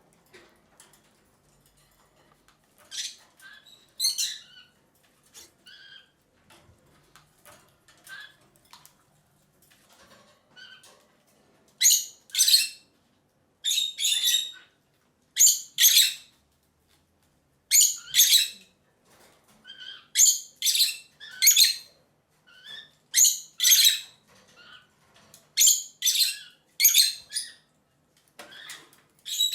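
Peach-faced lovebirds calling in short, shrill chirps, often in quick pairs. The calls are sparse and faint at first, then loud and steadily rhythmic from about halfway on: the flock's rhythmic calling to other birds.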